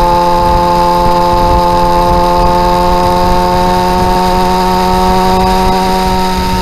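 Yamaha XJ6N's inline-four engine running through its newly fitted aftermarket exhaust, held at steady revs under way, its note rising slowly, over a rough rumble of wind and road noise.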